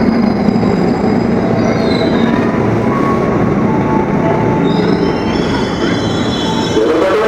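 KRL Commuterline electric commuter train running along the rails with a steady heavy rumble, and thin high-pitched wheel squeal rising out of it about two seconds in and again from about five seconds in.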